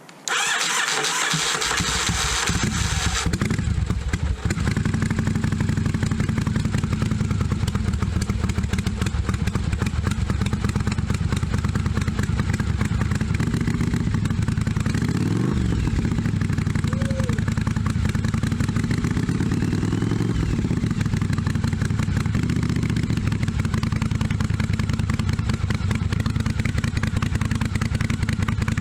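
1982 Yamaha Virago 750's V-twin engine starting up: it comes in suddenly with a harsh first few seconds, then runs steadily. The revs rise and fall twice around the middle, as from throttle blips.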